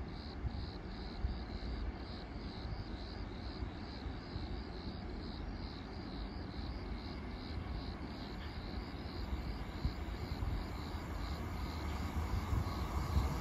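Low rumble of a pair of coupled Alstom ETR104 Pop electric multiple units approaching from a distance, swelling in the last couple of seconds as a hum and wheel noise come in. A faint high chirping repeats about twice a second throughout.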